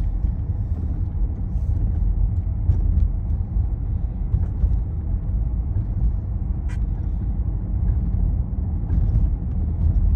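Vehicle driving: a steady low engine and road rumble, with a few faint clicks and one sharper tick about two-thirds of the way through.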